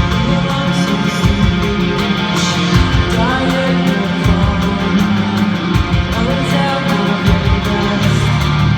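A punk rock band playing live at full volume: distorted electric guitar, bass and pounding drums.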